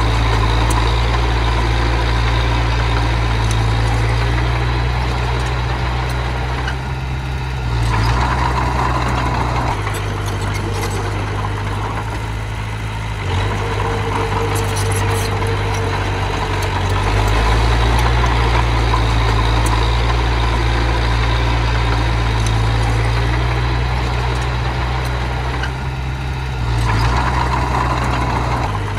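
A small bulldozer's diesel engine running steadily, its note dipping and rising every few seconds as the load changes while it works, with faint clanks.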